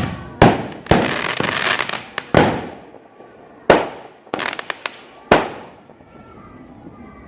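Fireworks going off: a string of sharp bangs, each trailing off, with a stretch of dense crackling about a second in and a quick cluster of pops around four and a half seconds, then quieter near the end.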